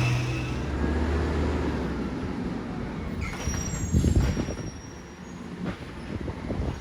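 Side-loader garbage truck's engine running, its note dropping away over the first couple of seconds. About four seconds in comes a burst of clatter and knocks with a few faint high squeals.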